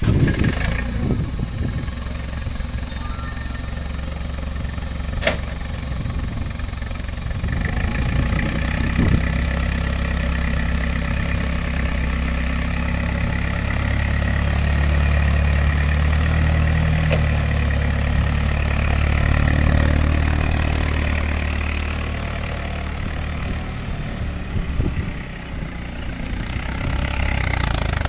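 Clark C25C forklift's LP-gas engine running, its speed rising through the middle and easing off again, with a sharp click about five seconds in.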